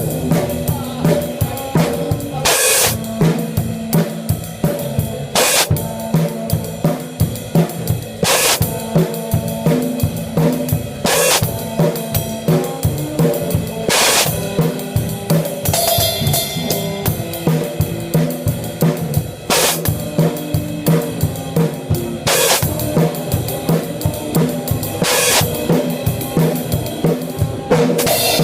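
Drum kit played loud and close in a band rehearsal: steady bass drum, snare and hi-hat, with a cymbal crash about every three seconds. Sustained pitched notes from the rest of the band sit underneath.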